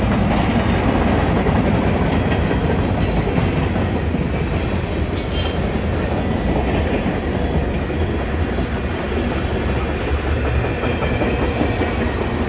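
Freight cars of a CN freight train rolling past: a steady loud rumble of steel wheels on the rails with clickety-clack, and a couple of brief high wheel squeals.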